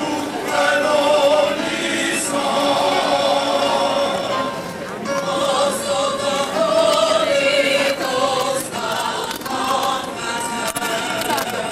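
Music with a choir of voices singing long held notes, with a brief break about halfway through.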